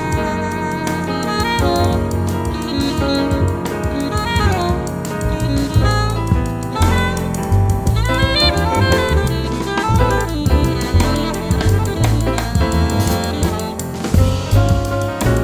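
Jazz quartet playing live: an alto saxophone leads the melody, with wavering held notes, over piano, a walking bass line and a drum kit.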